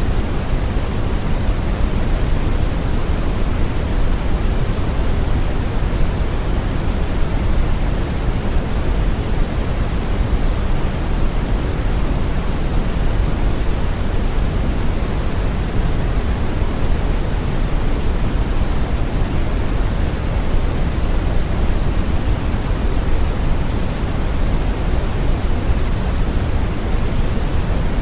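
Steady brown noise: an even, deep rushing hiss, strongest in the low end and falling off in the highs, with no changes or events.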